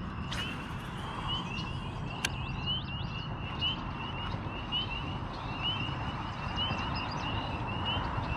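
A chorus of short, high, slightly rising chirps repeating about three times a second, over a steady low rumble, with a couple of faint clicks.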